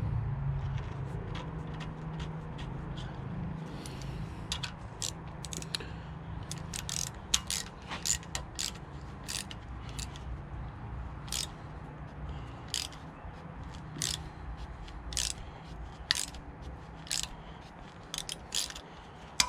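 A thread being cut by hand with a tap and tap wrench into a drilled grease-nipple hole in a steel pivot pin, lubricated with cutting paste: irregular metallic clicks, more frequent from about four seconds in, over a steady low hum.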